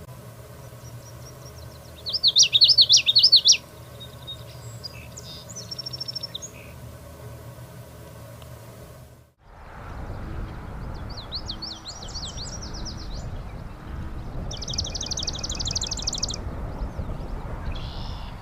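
Common yellowthroat singing its rapid, repeated phrase in bouts of about one and a half seconds, three times, loudest about two seconds in. A steady low hum sits under the first part, and a noisier background follows a cut about nine seconds in.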